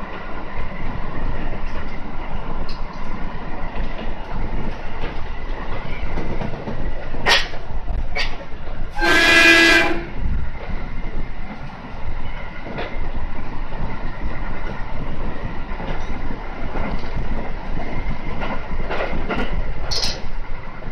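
Aoimori Railway 700 series electric train running, wheels rumbling and clicking over the rails as heard inside the driver's cab. A single horn blast of about a second sounds near the middle.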